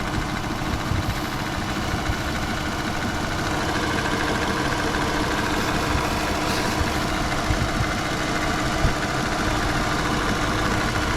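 Car's V6 engine running at a steady idle, getting slightly louder about three and a half seconds in.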